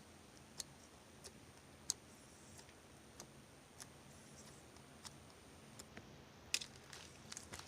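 Opaque blue slime being handled, giving faint, sharp little clicks and pops about once every half second to second, a few coming closer together near the end.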